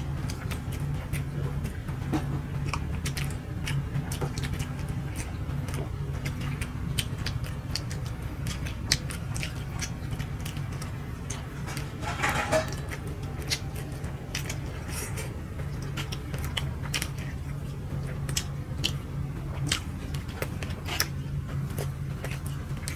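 Two people chewing and biting soft chitoi pitha rice cakes, with frequent small mouth clicks, over the steady low drone of a tractor engine.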